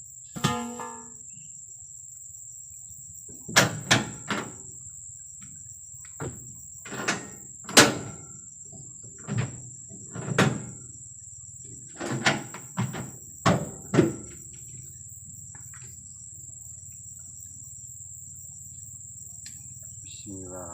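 Oil palm fresh fruit bunches being loaded by hand, thudding into a truck bed one after another: about a dozen irregular heavy knocks, stopping after about fourteen seconds. Insects keep up a steady high-pitched shrill throughout.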